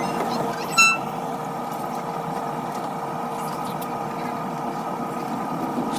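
Steady running noise of a Caltrain commuter train, heard from inside the gallery cab car, with a faint steady hum under it. About a second in, a short, loud, high-pitched toot cuts through it.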